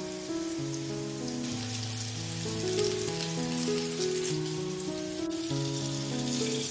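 Background music with a slow melody, over the crackling sizzle of hake fish balls frying in hot oil in a pan. The sizzle grows louder about a second and a half in.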